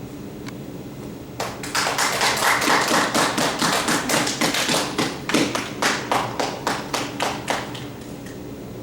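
A small group of people clapping for about six seconds, starting a second and a half in and dying away near the end, with a steady low hum underneath.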